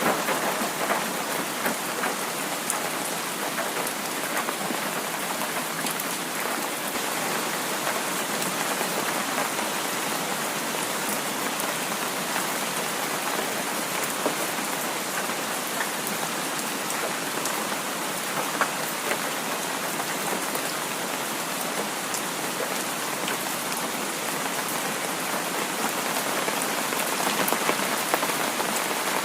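Heavy rain falling steadily: a dense, even hiss of rain on surfaces, with many small sharper drop ticks scattered through it.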